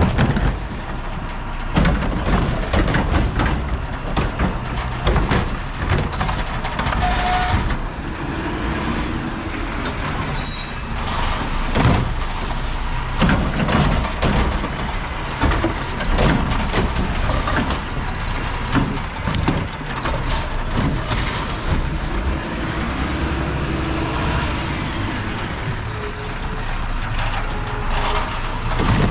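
Heil-bodied Mack LR recycling truck's diesel engine running, with repeated knocks and clatter throughout. Brief high squeals come about ten seconds in and again near the end.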